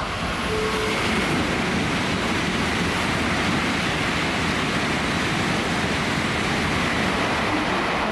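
Tokaido Shinkansen bullet train running through at high speed, a loud, steady rushing noise with a faint high whistle.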